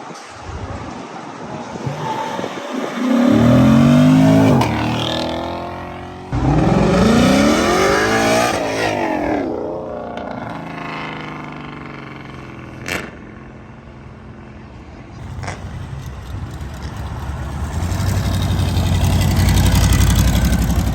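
Cars accelerating hard, one after another: two engine runs whose pitch climbs steeply, each lasting two to three seconds, then a low engine rumble that builds toward the end. A single sharp click comes about two-thirds of the way through.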